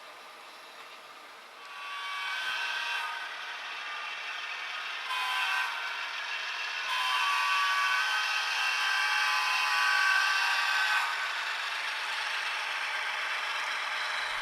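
HO scale model train running along the layout track, a mechanical clatter and whir with a few steady tones. It swells in about a second and a half in and stays up as the train comes by.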